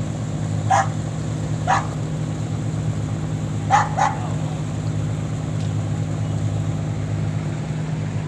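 A dog barks four times, twice singly and then a quick double bark, over the steady low drone of a fishing boat's engine running as the boat manoeuvres.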